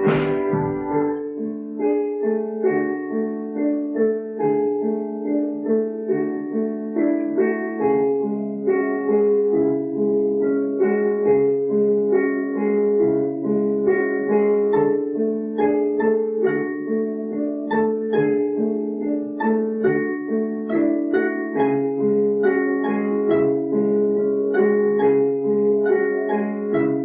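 Instrumental music: a plucked string instrument plays a steady run of picked, ringing notes in an arpeggio pattern after a strummed chord at the start, with no singing.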